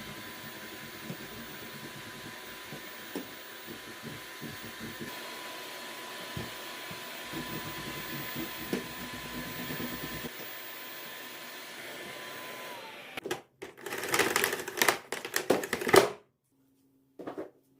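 An electric household appliance motor running with a steady whir that winds down about thirteen seconds in, followed by a few seconds of loud clattering and knocking.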